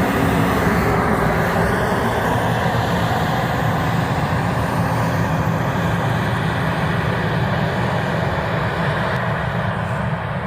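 Steady running noise of a farm vehicle's engine, a constant low hum with a rushing noise over it, which falls away right at the end.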